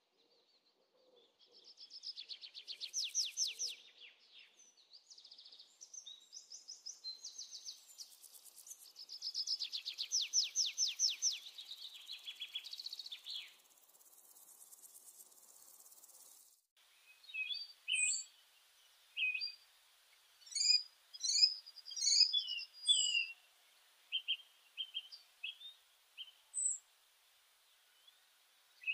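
Birds singing: long, rapid trilled phrases at first, then after an abrupt change about halfway through, scattered short chirps and whistles.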